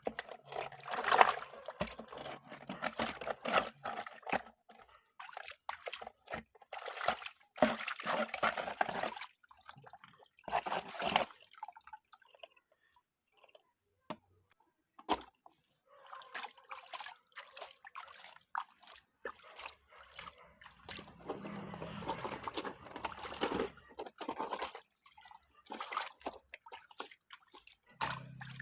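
Water sloshing, splashing and dripping in irregular bursts as small toy vehicles are dipped and washed, with a quiet pause of a few seconds around the middle.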